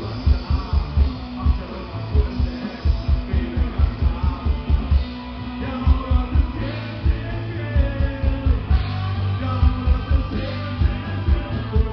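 Rock band playing live: distorted guitar, bass and a busy drum kit with rapid kick-drum hits, in a low-fidelity live recording.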